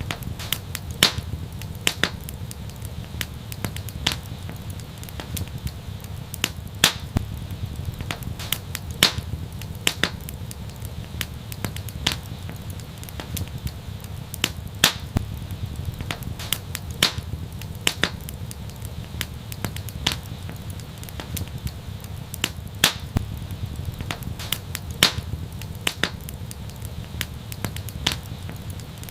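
Fireplace fire crackling with sharp, irregular pops, about one or two a second, over a steady low rumble of the flames.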